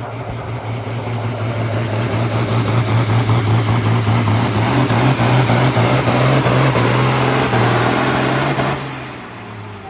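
Diesel engine of a pulling tractor at full throttle during a pull, growing louder over the first few seconds and holding hard, then dropping off sharply near the end as the throttle is cut, leaving a high falling whine as it winds down.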